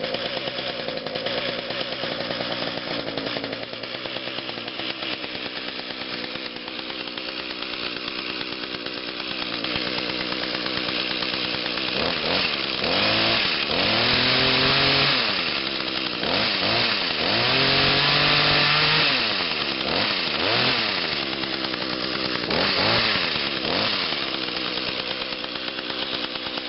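Small Echo two-stroke engine, freshly cold-started, idling steadily as it warms up, then revved up and back down about six times in the second half, a couple of the revs held for a second or two before it settles back to idle.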